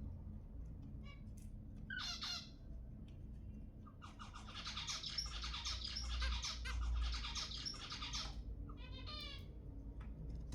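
Zebra finch singing: a short nasal call, then a song of rapidly repeated notes lasting about four seconds, then another short call near the end.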